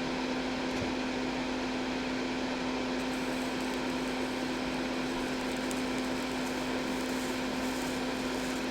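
A steady motor hum with one constant low tone, unchanged throughout.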